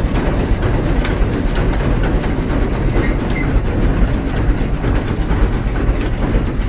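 Heisler geared steam locomotive under way, heard from inside its cab: a steady rumble and rattle of the running locomotive and its wheels on the track.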